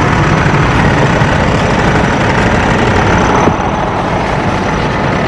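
Truck engine running steadily with a deep hum, dropping a little in level about three and a half seconds in.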